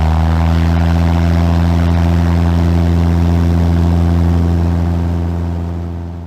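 Cessna 150's four-cylinder Continental O-200 engine and propeller droning loud and steady at a constant pitch, fading out near the end.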